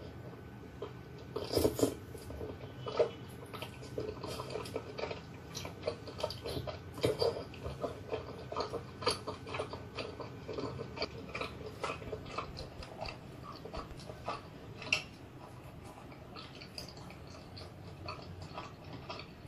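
Close-up eating sounds of a person chewing chewy tteokbokki rice cakes in thick sauce: irregular wet mouth clicks and smacks.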